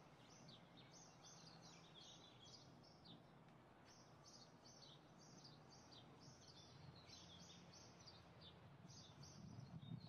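Faint outdoor quiet: small birds chirping over and over in quick, high notes, over low steady background noise.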